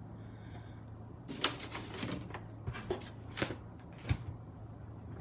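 Light clicks and knocks from clear stamps and craft supplies being handled on a desk, with a short rubbing sound about a second and a half in. The stamp is being cleaned of StazOn ink that will not come off.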